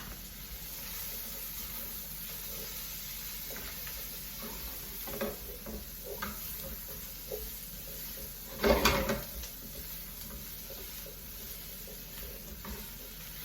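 Chopped onion, garlic and peppers sautéing in butter in a frying pan: a steady sizzle, with a few light utensil knocks and a louder stirring clatter about nine seconds in.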